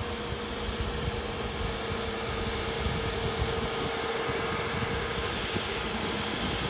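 Airliner engines running, a steady rush of noise with a held whine, growing slightly louder.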